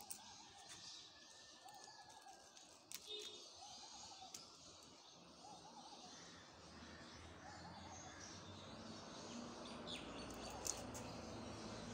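Faint bird call, one short note repeated about once a second, dying out after about seven seconds. A few light clicks come from the metal keyrings and chains of resin keychains being handled, and a low rumble builds in the second half.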